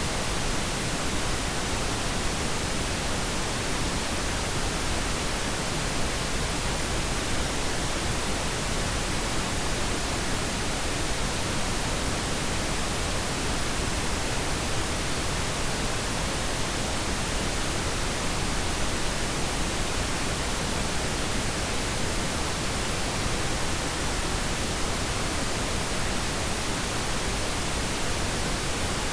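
Steady pink noise: an even, unchanging hiss across the whole range, softer in the highs than white noise.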